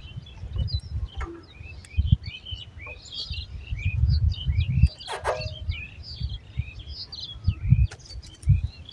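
Small birds chirping all through, many short quick notes that rise and fall, over irregular low rumbles and thumps, loudest about four to five seconds in.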